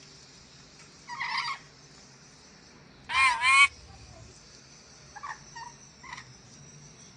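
Nuri dora parrot calling: a harsh call about a second in, a loud squawk with a bending pitch about three seconds in, then a few shorter, fainter calls near the end.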